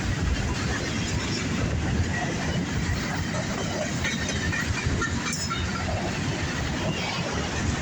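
Norfolk Southern freight train rolling past, a steady rumble of wheels on rail with some clickety-clack.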